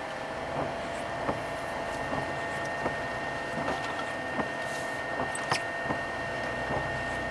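Steady hum inside a stopped vehicle's cabin, with a thin, steady high whine and a lower tone running under it, and a few faint scattered ticks.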